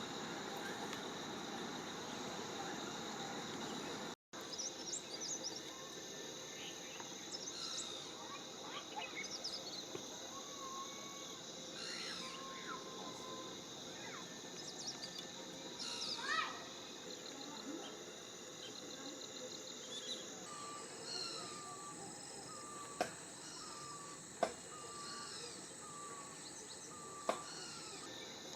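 Outdoor ambience: insects droning steadily at a high pitch, with scattered bird chirps and calls and, later, a run of short repeated notes. The sound cuts out briefly about four seconds in, and a few sharp clicks come near the end.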